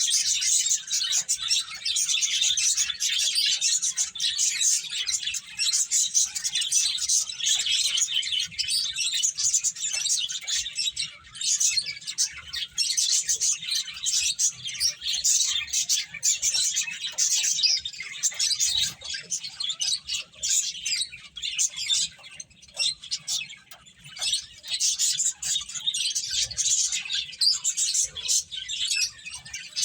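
Several pet finches chirping, a dense run of rapid, high overlapping chirps that thins briefly now and then.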